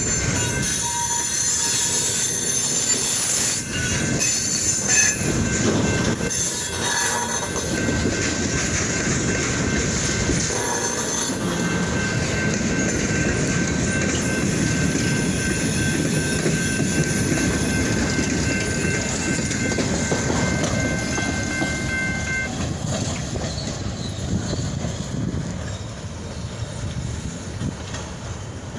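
Freight train cars rolling slowly on the rails. Their wheels squeal in a steady high pitch that stops about three quarters of the way through, and there are a few clanks near the start.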